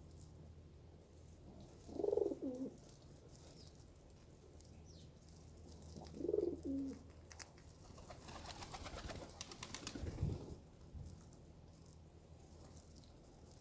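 A pigeon-family bird cooing: two short low coos about four seconds apart. They are followed by a rapid rattling flutter lasting about two seconds that ends in a low thump.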